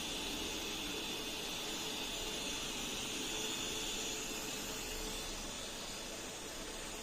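Xiaomi Robot Vacuum X20 Pro running, its suction fan giving a steady hiss with a high whine that fades about four seconds in.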